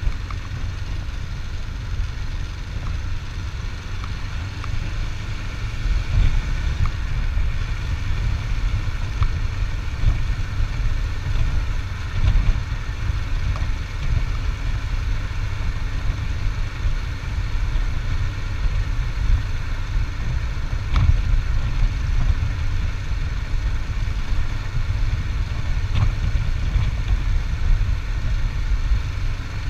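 Steady engine and road rumble of a vehicle on the move, low and even, with a few brief knocks spread through.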